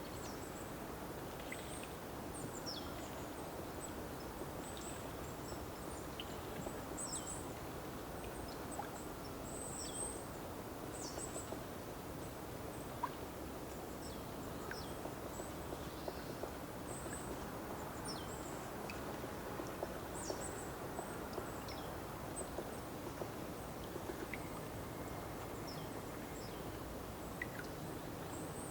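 Small birds calling with short, high chirps scattered throughout, over a steady outdoor background hiss.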